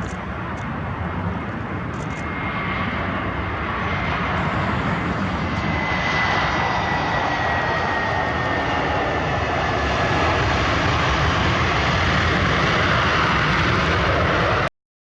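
Jet airliner's engines running loud and growing steadily louder, with a high whine that slowly falls in pitch. The sound cuts off abruptly near the end.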